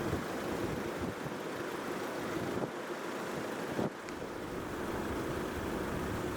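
Steady rushing noise of passing vehicles, with wind buffeting the microphone and two brief knocks about three and four seconds in.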